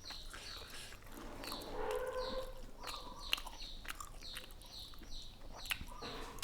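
Small birds chirping in the background: a short, high, falling chirp repeated about two to three times a second, with light clicks between.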